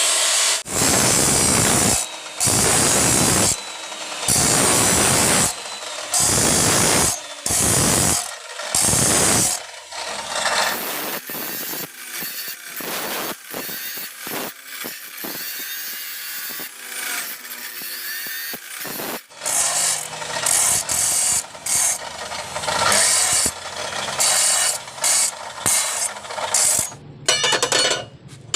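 A hand tool rasping on metal in repeated strokes, each about a second long, for the first ten seconds. Then come quieter scrapes and clicks, and from about twenty seconds in, shorter, quicker strokes.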